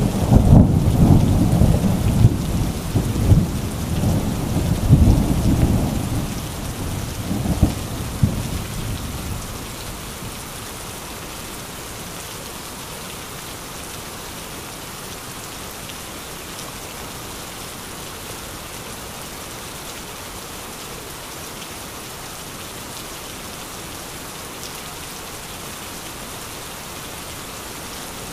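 Heavy rain falling steadily, with a long rumble of thunder over the first nine seconds or so that fades away, leaving only the even hiss of the rain.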